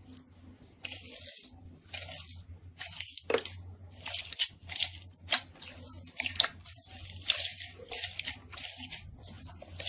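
Slime being squeezed and pressed by hand: a run of wet, sticky crackling bursts about every half second, with a few sharp pops among them.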